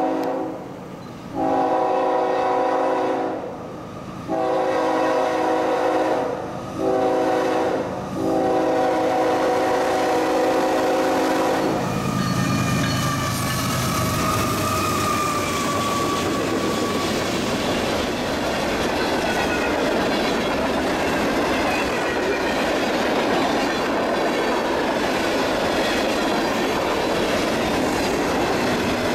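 A freight locomotive's air horn sounds the grade-crossing signal. One blast ends just after the start, then come long, long, short, long, with the last blast held until about 12 s. The CSX freight then rolls past: the locomotives' engines run briefly close by, followed by steady wheel-on-rail rolling noise from the freight cars, with thin wheel squeals.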